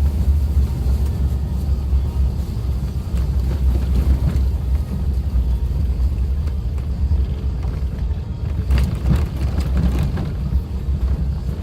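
Suzuki Jimny driving on a rough forest road: a steady low engine and road rumble, with a few short knocks and rattles from the bumpy surface.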